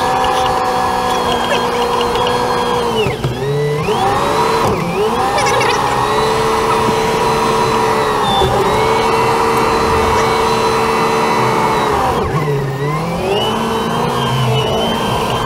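An engine running steadily, its pitch dropping sharply and climbing back up twice: about three seconds in and again near the end.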